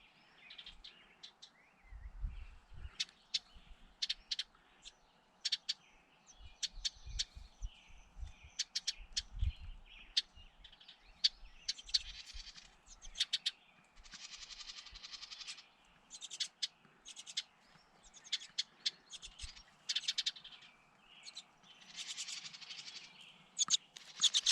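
Small birds chirping: many short, high chirps, scattered and in quick runs of rapid repeated notes. A few soft, low thumps sound in the first half.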